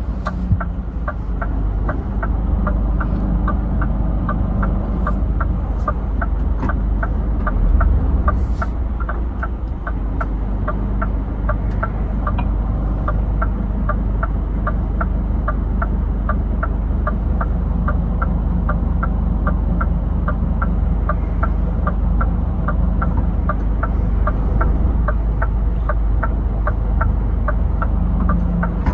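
Scania truck driving at a steady pace, heard from inside the cab: a steady low engine and road rumble with a regular light ticking about twice a second.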